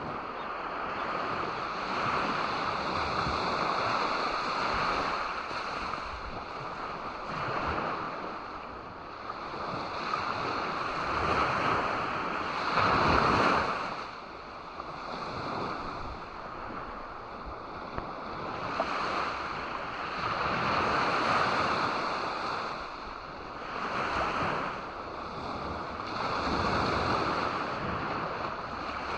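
Ocean waves breaking and washing on a beach, swelling and easing every few seconds, with the loudest break about 13 seconds in.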